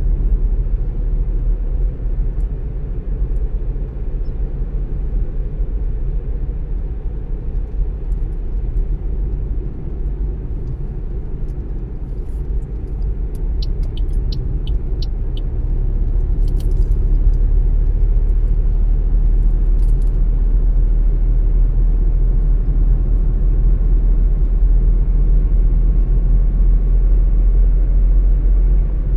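Car driving along a road: a steady low rumble of engine and tyre noise. About halfway through comes a short run of about six quick, high ticks.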